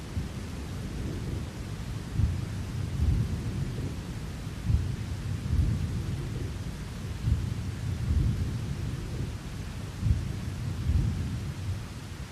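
Thunder rumbling in a series of low rolling swells, one every second or two, over a steady hiss of rain.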